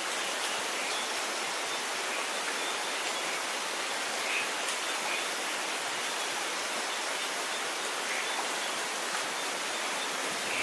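Steady rain falling: an even hiss, with no thunder in this stretch.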